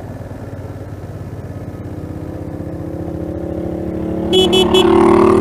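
Motorcycle engine running with a steady low throb, heard through a helmet-mounted mic. In the second half another engine's note rises slowly in pitch and grows much louder as it draws close. A brief high pulsed chirping comes about four seconds in.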